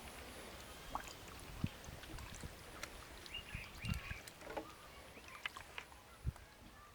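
Canal water splashing and sloshing, with scattered soft knocks and a couple of short chirps.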